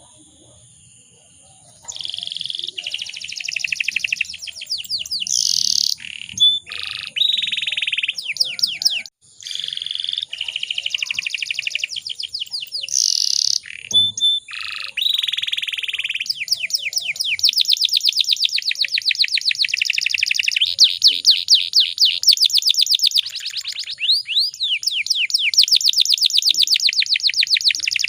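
Domestic canary singing a long song of fast rolling trills and chirps. It starts about two seconds in, after a short quiet, and breaks off briefly about nine seconds in.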